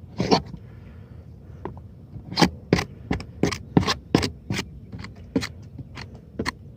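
Hook-blade utility knife slicing through roofing material in short, quick strokes, about three a second, beginning in earnest about two seconds in.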